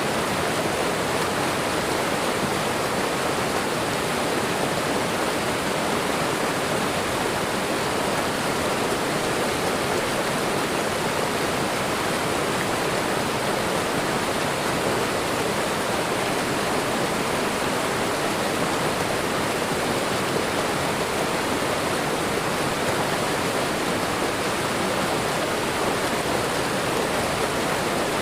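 Waterfall and running water: a steady, unbroken rush of falling and flowing water.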